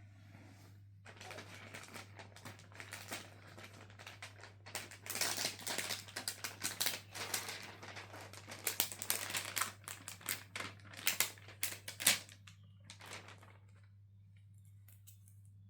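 Rapid crinkling and light tapping of plastic sticker sheets being handled and stickers pressed on by hand. It is busiest in the middle and stops about two seconds before the end, with a low steady hum underneath.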